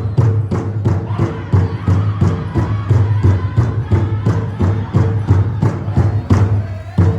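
A powwow drum group beats a large powwow drum in steady unison, about three to four strokes a second. The singers' high chanting joins about a second in and drops away near the end.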